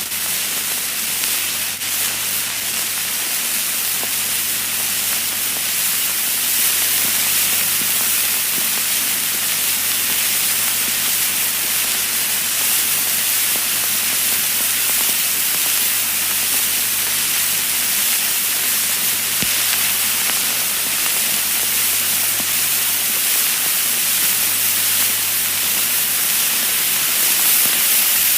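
Vinyl record surface noise: a steady hiss with a low hum underneath and occasional sharp clicks and pops.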